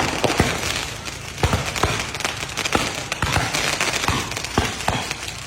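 Aerial fireworks bursting: a dozen or so sharp bangs at irregular intervals over a continuous crackling hiss.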